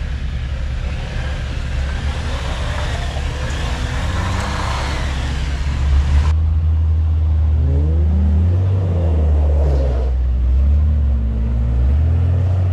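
Off-road Jeep engine running, with a broad rushing noise over it that stops abruptly about halfway. After that the engine revs up and down several times as the driver works the throttle.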